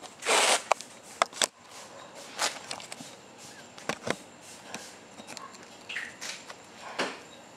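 Scattered short clicks, knocks and rustles, with a brief burst of hiss just after the start; no engine is running.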